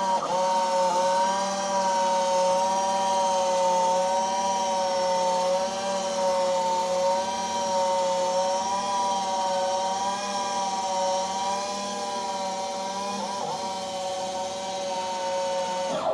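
Dayton gear-reduction permanent-magnet motor with all-metal gears running steadily with a whine, turning a Cozy Mark IV's nose gear retraction shaft in place of the hand crank. The pitch wavers slightly under the changing load, and the motor stops near the end.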